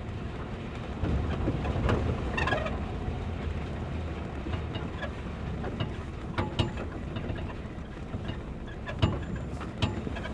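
Inside a moving car's cabin on a rough road: a steady low rumble of engine and tyres, with scattered knocks and rattles from the interior. No squeak is heard.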